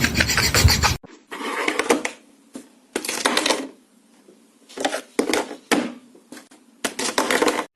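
Short bursts of scratching or rasping, repeated four or five times with pauses between, after an abrupt cut about a second in.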